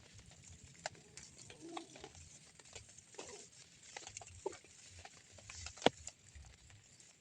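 Drizzle pattering: scattered raindrops ticking irregularly, with one sharper tap about six seconds in.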